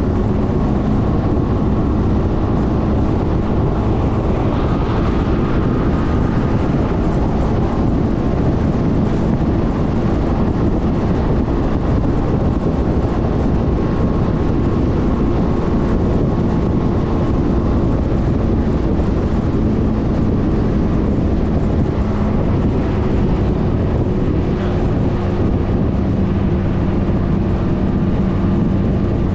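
2020 Suzuki Burgman 400 scooter's single-cylinder engine running steadily on the move, mixed with wind rushing over the microphone.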